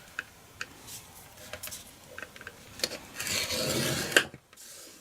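A scoring tool drawn once along a scoreboard groove across cardstock: a scraping rub of about a second near the end, closing with a sharp click. Light taps and paper handling come before it.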